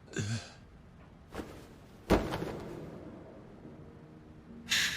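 A single heavy thud about two seconds in, dying away slowly, with a faint click shortly before it and brief snatches of voice at the start and end.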